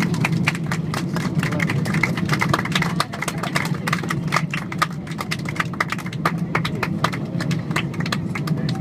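Boeing 777-200LR passenger cabin on the ground after landing: a steady low roar of jet and airflow noise with rapid, irregular clicking and rattling of cabin fittings throughout.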